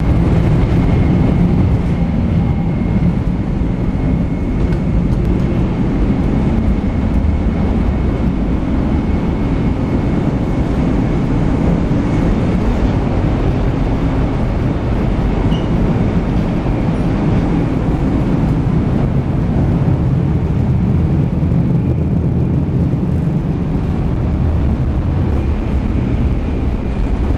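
Steady low rumble of a 700 Series Hikari Rail Star Shinkansen running, heard from inside the car, with a faint steady high-pitched whine over it.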